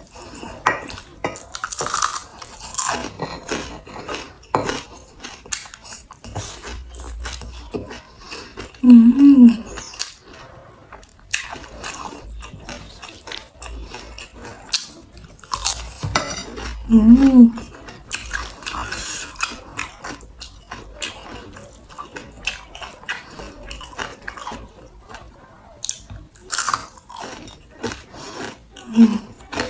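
Close-miked chewing and crunching of a mouthful of rice with fried side dishes such as tempeh and anchovies, with many small wet clicks and crackles. Twice, about 9 and 17 seconds in, a short loud hum of enjoyment ('mm') is heard over the chewing.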